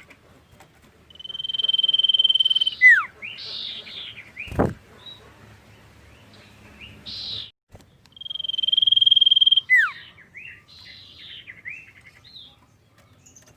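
Common iora singing: a long, steady, high whistle that ends in a quick falling note and a run of short chattering notes, given twice about six seconds apart. A single sharp knock sounds between the two phrases.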